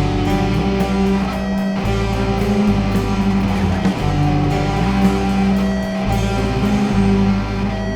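Instrumental post-rock: electric guitars over bass guitar and a steady drum beat.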